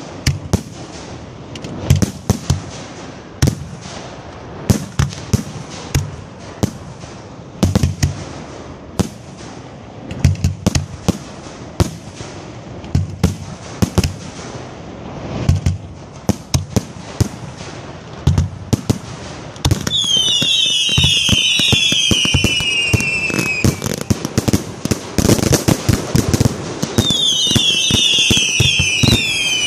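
Fireworks show: aerial shells burst one after another with sharp booms about every second or so, each trailed by crackle. About two-thirds of the way in, a volley of whistling rockets goes off, many shrill falling whistles overlapping over a continuous crackle, and a second volley of whistles comes near the end.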